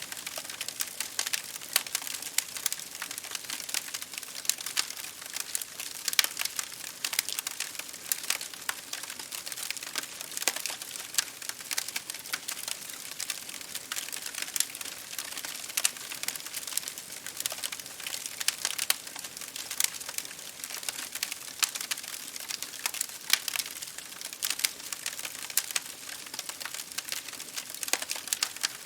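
Campfire burning: wood crackling and popping irregularly over a steady hiss.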